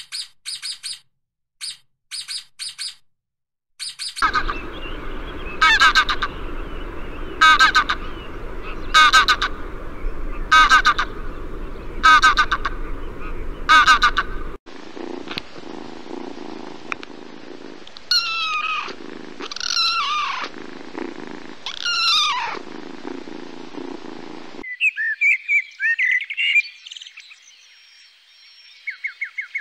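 A string of separate wildlife recordings of bird and animal calls. Quick chirps come first, then loud calls repeated about every second and a half over a steady rushing background, then a few falling calls. Near the end a common blackbird sings a warbling song.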